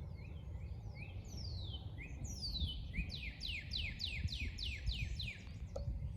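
A songbird singing a run of high, downward-sweeping notes that speed up into a quick series of about a dozen, over a steady low rumble of outdoor background noise.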